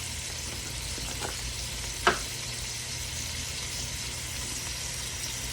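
Steady sizzling hiss from a pot of potatoes on a hot stove burner, with one sharp knock about two seconds in.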